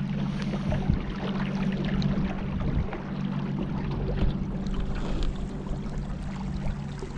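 Motorboat under way on the river: a steady engine hum under the rushing and splashing of water along the hull, with wind on the microphone.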